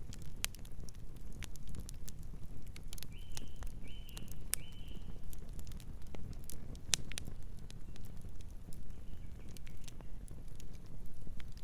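Wood fire crackling, with many sharp irregular pops and snaps over a steady low rumble of burning. A bird chirps three short notes about three to five seconds in, and gives fainter chirps near the end.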